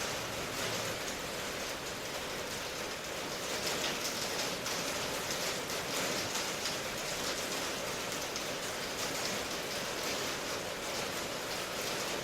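Steady rain falling, a constant hiss of many drops hitting surfaces with no lulls.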